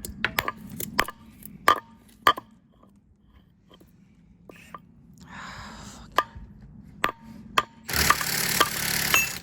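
Sharp metal-on-metal knocks, a few at a time, from working a seized wheel spacer loose from a car's hub. Near the end comes about a second and a half of loud hissing noise.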